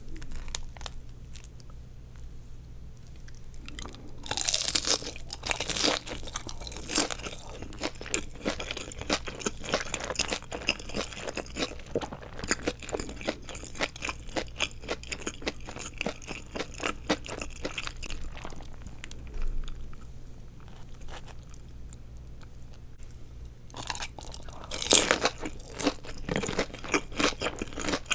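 Bites into deep-fried nori rolls filled with glass noodles, each followed by a run of crisp crunching as they are chewed. The loudest bites come about four seconds in and again near twenty-five seconds in.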